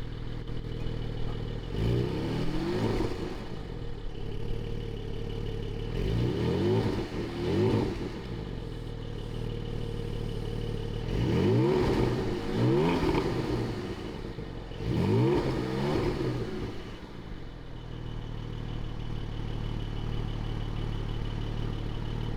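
Porsche 718 Cayman GT4's naturally aspirated 4.0-litre flat-six, on its stock exhaust with the valves open, blipped about six times, often in pairs, falling back to idle between revs. It settles into a steady idle for the last few seconds.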